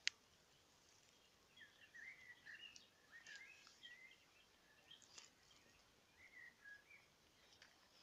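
A songbird singing faintly in short, varied phrases, starting about a second and a half in and running on until near the end. A single sharp click comes right at the start.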